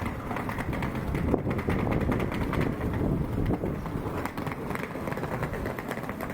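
A train running through the station: a steady rumble over the rails, with many small rapid clicks.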